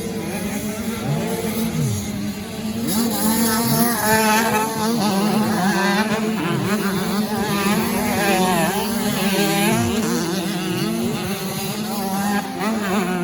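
Several 85 cc two-stroke motocross bike engines racing at once, their pitches repeatedly rising and falling as the riders open and close the throttle and shift gears.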